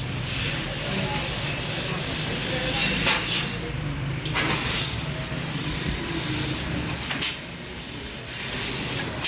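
CNC laser cutting machine cutting a steel piece: a steady hiss of the cutting gas over the low hum of the machine, with a couple of brief sharp crackles along the way.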